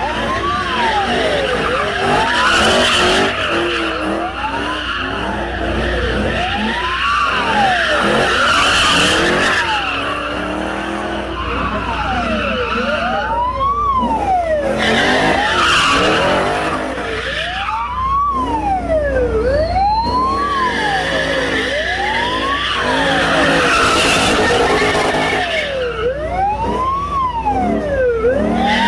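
Police car siren sweeping up and down over and over, about every second and a half, over the squeal of skidding tyres and a running engine as a Ford Mustang police car drifts.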